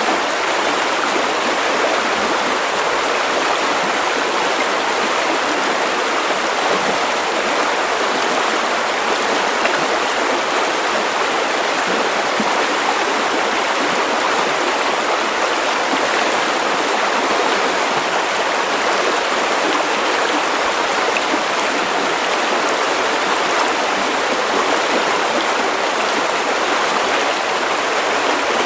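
River water running steadily over stones, an even rushing and babbling with no pauses or changes.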